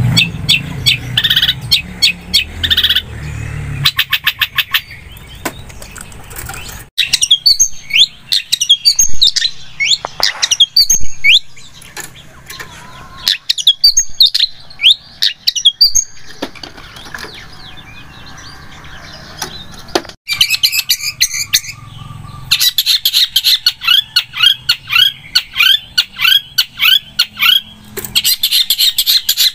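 Long-tailed shrike (cendet) singing: loud, rapid runs of sharp, chattering and sliding notes. The song changes abruptly in character three times, about 4, 7 and 20 seconds in.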